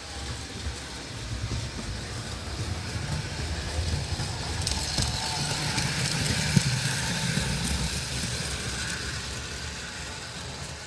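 O-scale model train rolling along its track, its rumble growing louder toward the middle and fading away as it passes, with a single sharp click about six and a half seconds in.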